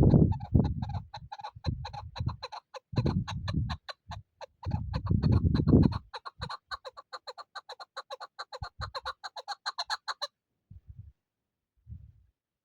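Chukar partridge calling: a fast, even run of clucking notes, about five a second, stopping abruptly about ten seconds in. Loud low rumbles come and go under the first half.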